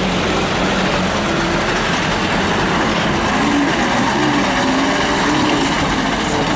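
Truck engine running steadily, its pitch wavering slightly, under a broad rush of road noise.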